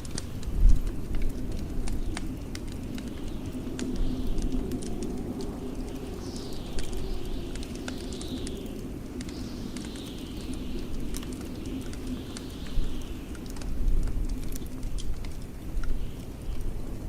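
Low, steady blizzard wind noise under a wood fire crackling with small sharp pops. From about six seconds in comes a run of four or five high, falling whistles.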